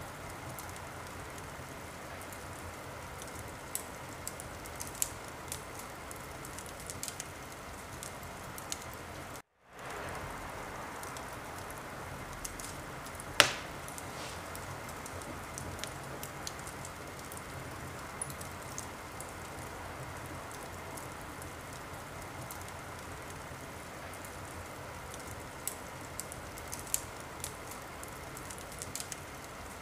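Wood fire burning in a fireplace: a steady hiss with scattered sharp crackles and one loud pop a little under halfway through. The sound cuts out for a moment about a third of the way in.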